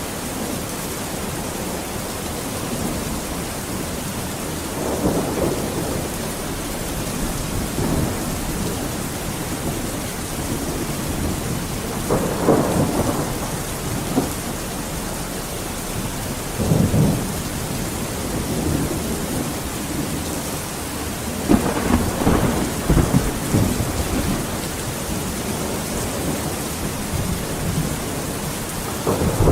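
Steady heavy rain, with thunder rumbling several times: swells at about 5, 12, 17 and 22 seconds in, and a louder one starting right at the end.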